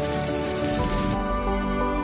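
Persian kotlet, meat-and-potato patties, sizzling as they shallow-fry in oil in a pan. The sizzle cuts off suddenly a little over halfway through, leaving soft background music.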